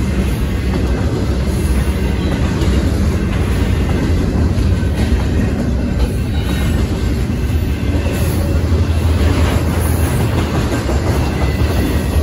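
Intermodal freight cars rolling past at close range, double-stack container cars and trailer-carrying cars, a loud, steady, low-pitched running noise of wheels on rail.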